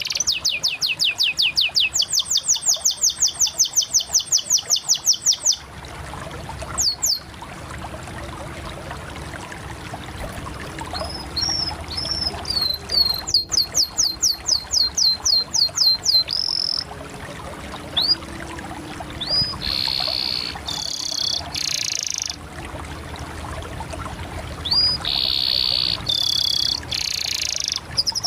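Canary singing: phrases of rapid trills of repeated high notes, each lasting a few seconds, with short pauses and single whistled slurs between. Buzzy rolled notes come near the end.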